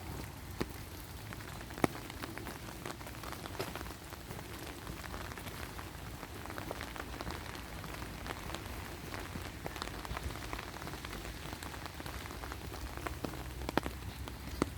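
Steady rain falling, a hiss of noise with many close drops ticking sharply, a few louder than the rest.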